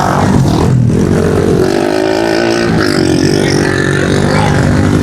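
Pit bike engines racing on a dirt track, revving and shifting in pitch as the bikes accelerate and back off.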